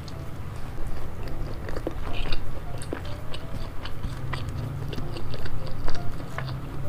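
Close-miked chewing of a mouthful of rice ball wrapped in seaweed, with many small clicks and smacks of the mouth.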